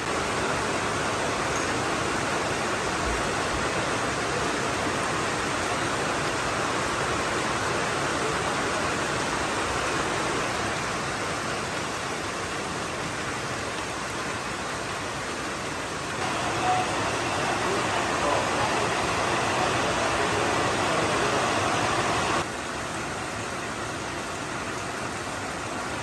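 Heavy rain pouring down, a steady hiss. It grows louder about sixteen seconds in and drops back suddenly about six seconds later.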